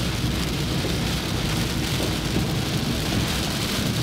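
Heavy rain on a moving car, heard from inside the cabin: a dense, steady hiss over a low rumble.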